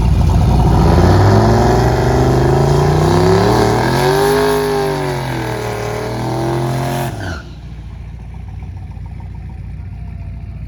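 Drag racing car's engine at full throttle down the strip, a loud steady pitched note that wavers slightly in the middle of the run. A little after seven seconds the note drops suddenly and falls away to a low rumble, as at the end of the pass.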